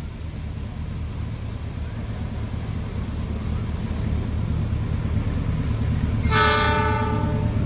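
An approaching train's diesel locomotive rumbling louder and louder as it nears, sounding one horn blast about a second long near the end.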